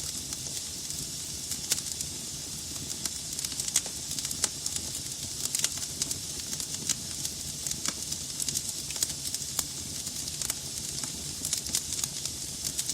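Wood fire burning in a fireplace: a steady hiss with frequent irregular crackles and pops from the burning logs.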